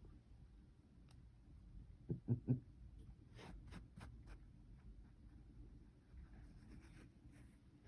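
Faint handling noises in a quiet room: three soft, low thumps in quick succession about two seconds in, then a short run of sharp clicks.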